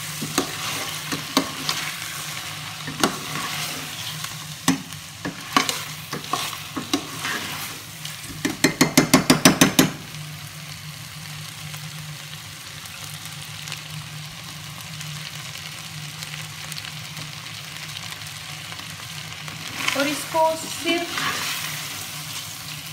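Chicken korma sizzling in hot oil in a stainless steel pot while a metal spoon stirs it, scraping and clicking against the pot. This is the frying (bhuna) stage after fresh coriander, ginger and green chillies have gone in. About eight seconds in there is a quick run of loud, evenly spaced knocks.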